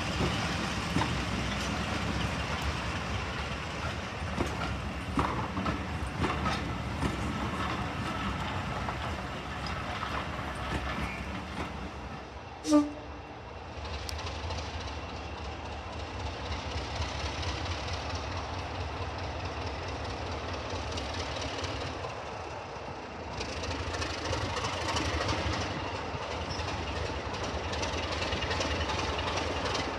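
Heritage diesel locomotive and its train running, a steady rumble of engine and wheels on rail. About thirteen seconds in comes one brief, sharp, loud sound.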